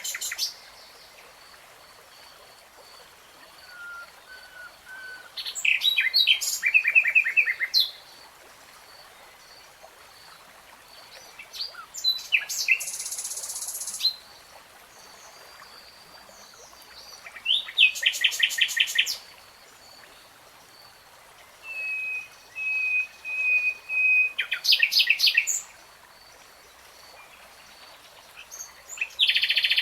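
A nightingale singing in separate phrases a few seconds apart: rapid trills, a buzzy high phrase, and a run of repeated whistled notes on one pitch. A faint steady high tone runs underneath.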